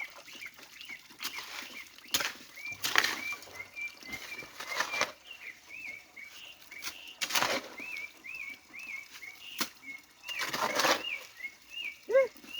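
A bird sings a steady series of short whistled up-and-down notes, two or three a second. Over it come several louder bursts of rustling and splashing as debris is cleared out of a stream.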